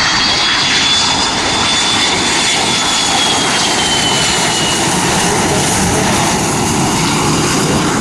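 Jet airliner's engines running loud and steady as the plane passes, with a high whine that slides slowly down in pitch over the first few seconds.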